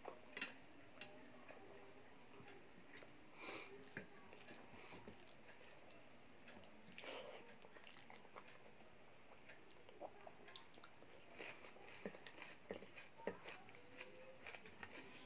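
Faint chewing of a mouthful of dal and rice, with scattered soft mouth clicks and smacks.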